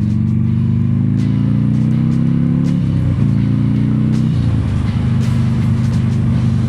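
Motorcycle engine accelerating with a slowly rising pitch, then dropping through two upshifts about three and four and a half seconds in before running steadily.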